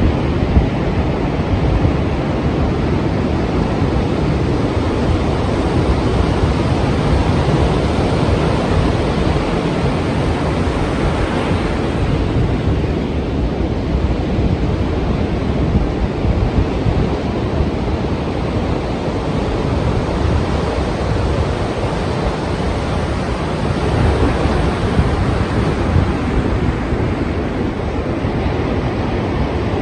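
Strong sea waves breaking as continuous surf noise, swelling and easing gently, with wind buffeting the microphone.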